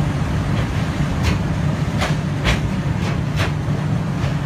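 Train running along the track, heard from aboard: a steady low rumble with sharp, irregular clicks of the wheels passing over rail joints.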